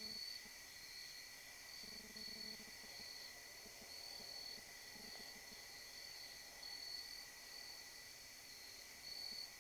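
Night insects such as crickets trilling faintly: one steady high drone with a higher trill that pulses on and off.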